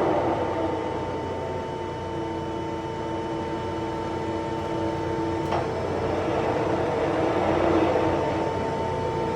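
Summit gap-bed engine lathe running under power: the spindle and headstock gearing make a steady mechanical hum with a few steady whining tones, and one short click comes about five and a half seconds in.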